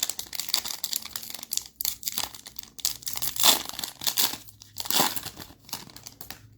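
Foil wrapper of a Mosaic basketball card pack being torn open and crinkled, with irregular crackling rustles that thin out near the end.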